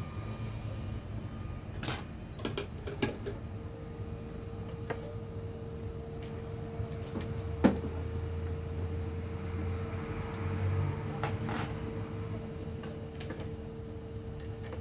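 A few light clicks and knocks, like small tools or parts being handled, over a steady low hum, with a steady tone coming on about four seconds in.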